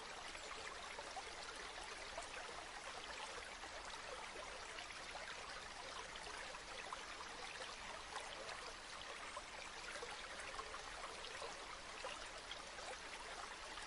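River water flowing gently, a steady babbling with fine splashing detail and no change in level.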